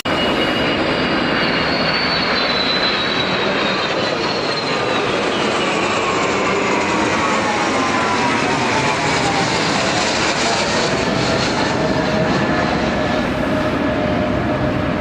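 Military display aircraft flying past, its engine noise loud and steady, with a whine that falls slowly in pitch through most of the pass.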